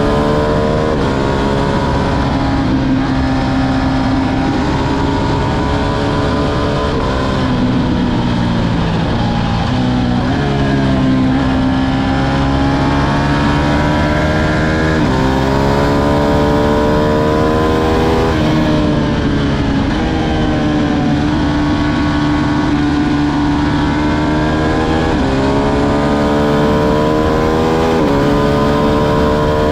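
Ducati Streetfighter V2's 955 cc L-twin engine running under way, loud and continuous. Its pitch climbs and falls several times, with sudden jumps as the revs change through the throttle and gears.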